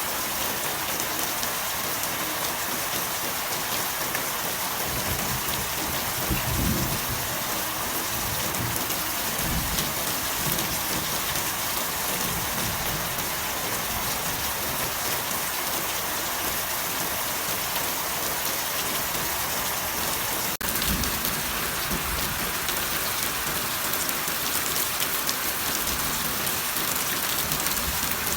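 Steady heavy rain hissing and pattering, with a few low rumbles of thunder: the strongest about six seconds in and again around twenty-one seconds.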